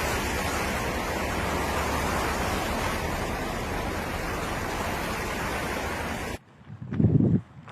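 Steady rushing noise that cuts off suddenly near the end, followed by a brief low rumble.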